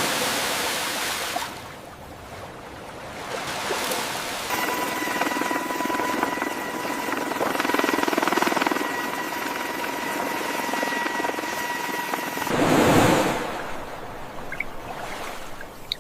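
Rushing noise like wind and surf, joined for several seconds in the middle by a steady mechanical whine over a low hum. A louder surge of rushing noise comes near the end.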